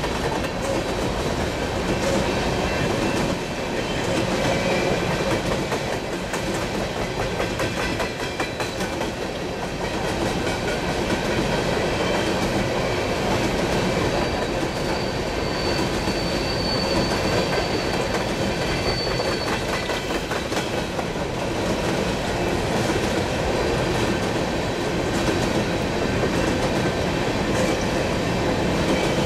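Coal train of steel-wheeled gondola cars rolling steadily past, with a continuous rolling noise and clickety-clack as the wheels cross the rail joints. A faint high wheel squeal comes in about halfway through.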